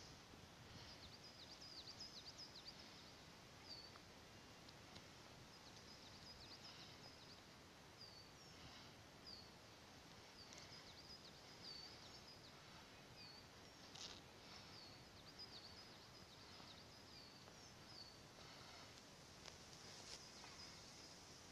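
Faint birds chirping, many short high calls, over low steady background noise.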